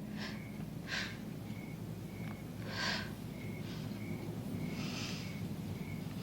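Experimental noise collage: short breathy hissing bursts, about five of them, over a steady low hum, with brief high beeping tones repeating in between.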